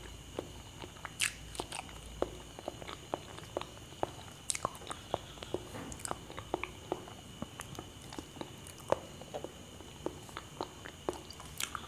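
Close-up mouth sounds of a person chewing ripe banana: short, soft wet clicks and smacks coming irregularly, two or three a second.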